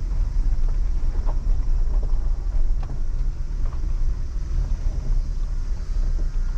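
Steady low rumble of a car's engine and road noise, heard from inside the cabin as it drives slowly, with a few faint ticks.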